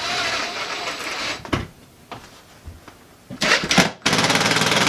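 Handling noises, scraping and a sharp knock, then a power drill running steadily for the last second or so.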